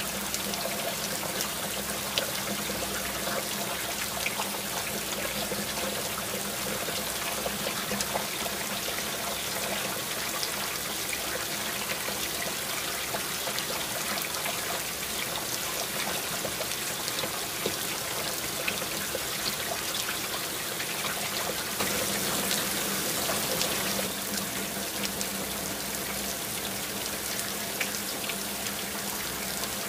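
Heavy rain falling steadily on corrugated metal roofs and a paved street, with water pouring off the roof eaves and many small drip ticks. Briefly louder for about two seconds a little past two-thirds of the way in.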